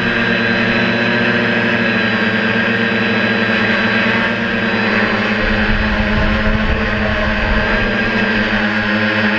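DJI F450 quadcopter's motors and propellers running with a steady whirring hum, with gusting wind rumbling on the microphone, most strongly about five to seven seconds in.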